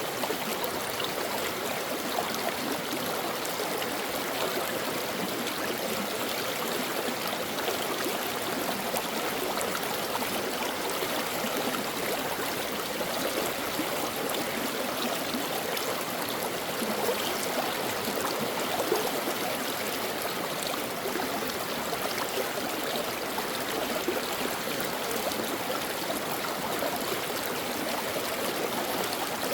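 A brook running over stones, a steady babbling and trickling of water with small splashes throughout.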